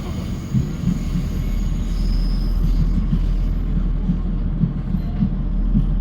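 Running noise of a Northern passenger train heard from inside the carriage: a steady low rumble of the wheels and underfloor engine on the track, with a brief faint high wheel squeal about two seconds in.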